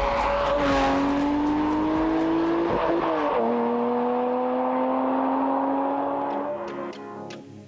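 Car engine accelerating under load, its pitch climbing steadily. About three seconds in there is an upshift and the pitch drops, then it climbs again before the sound fades away near the end.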